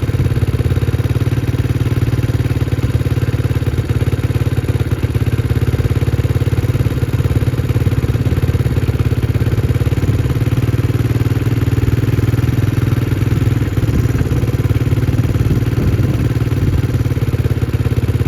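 Small single-cylinder four-stroke engine of a 2011 Can-Am DS90 quad, running steadily at a raised idle with the idle screw turned fully in. It has been left running hot so that a sticking valve works its way in and the carburetor clears itself out.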